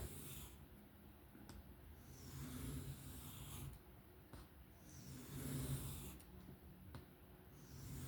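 A 154CM steel knife blade drawn across a sharpening stone in slow, even freehand strokes, a soft rasping scrape about every two and a half seconds.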